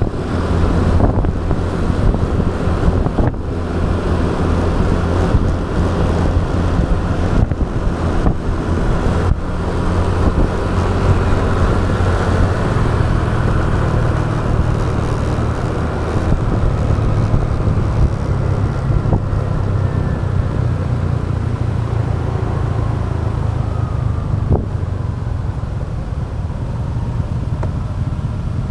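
Motorbike riding along a road: its engine runs steadily with a low hum, under wind rushing across the action camera's microphone.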